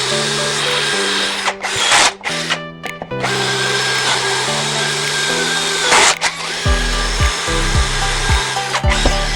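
Electric drill/driver running in long bursts with short pauses, as screws are driven while a cabinet is assembled. Background music plays over it, with a beat coming in near the end.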